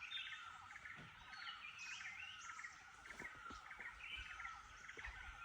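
Faint chorus of wild birds, several calling at once with quick repeated chirps and whistled notes that slide up and down.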